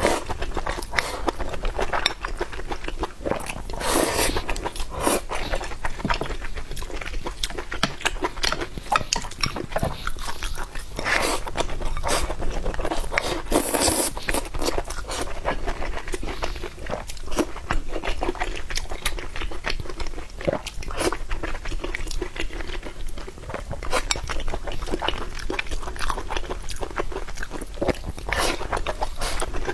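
Close-miked chewing and crunching of food, a dense run of small wet mouth clicks with a few louder, longer bursts.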